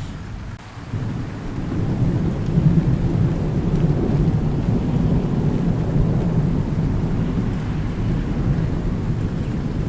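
Thunder rumbling low over steady rain. The rumble swells about a second in and keeps going.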